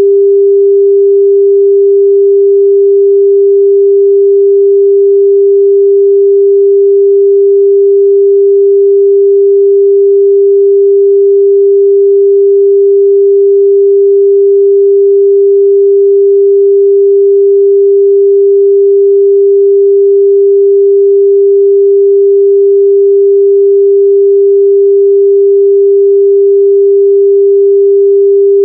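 Steady, loud 398 Hz sine-wave test tone, one unchanging pure pitch with no other sound.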